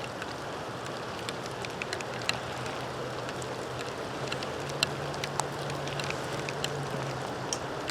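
Steady rain hiss with scattered raindrop ticks, over a faint low drone from the EMD SW9 switcher's diesel engine that strengthens slightly midway and fades near the end.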